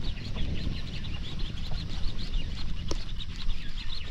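Birds calling with rapid, repeated high chirps, over a steady low rumble.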